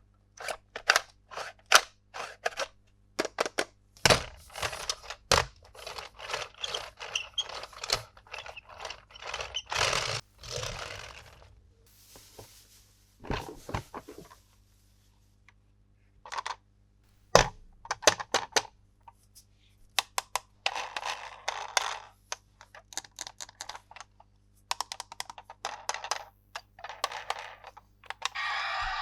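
Toy packaging being handled and opened: quick runs of sharp clicks and taps, with scraping and tearing, a few short pauses and one loud knock about halfway through.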